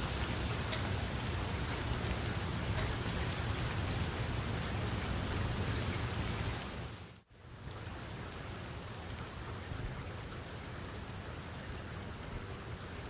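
Steady rain falling, with a few distinct drops ticking. About halfway through it dips out briefly and comes back a little quieter and duller.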